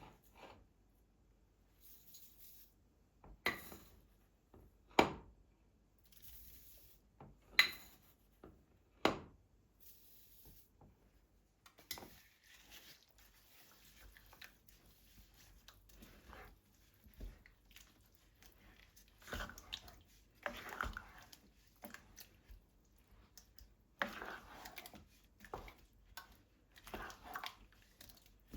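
Household objects being handled: four sharp knocks or clacks spread over the first ten seconds, like things being set down. Quieter rustling and small clicks of handling follow.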